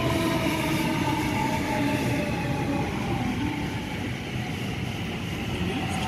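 Sydney Trains double-deck electric train running through the station without stopping: a steady rumble of wheels on rail under a motor whine that drops slightly in pitch.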